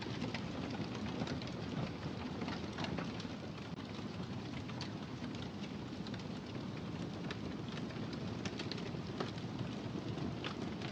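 Wood fire burning in a fireplace: a steady low rush of flame with frequent, irregular sharp crackles and pops.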